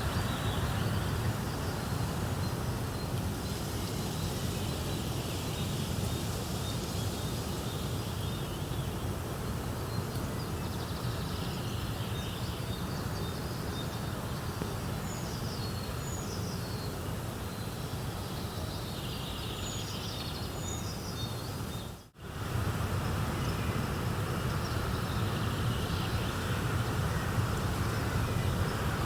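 Nature ambience: a steady rushing noise, with small birds chirping faintly in the middle. It cuts out abruptly for an instant about three-quarters of the way through, then resumes.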